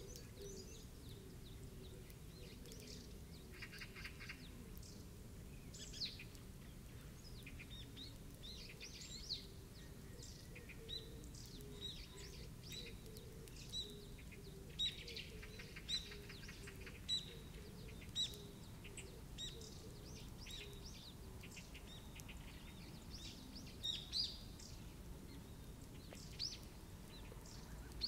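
Birds chirping, with many short high notes scattered throughout and a couple of brief buzzy trills, over a faint steady background.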